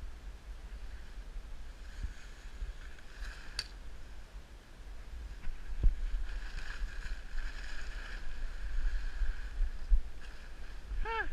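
Wind rumbling on the microphone over a steady faint hiss, with one sharp click about three and a half seconds in and a short pitched call that rises and falls near the end.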